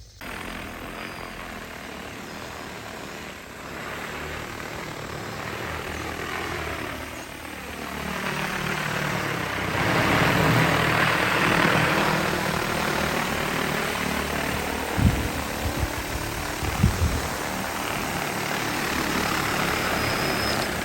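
DJI Agras T20P crop-spraying drone's rotors whirring steadily. The sound grows louder toward the middle as it passes close, with the pitch bending as it goes by, then eases off a little. There are a few brief low thumps near the end.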